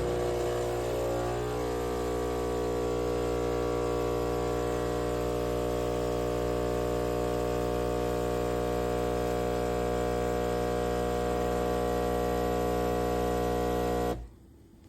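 Philips 3200 Series fully automatic espresso machine running: a steady buzzing hum that starts suddenly and cuts off about fourteen seconds in.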